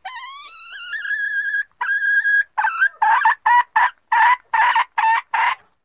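Junglefowl hen calling, a recording played as a lure: a long note rising in pitch, a held note, then a quick run of about eight short calls, roughly three a second.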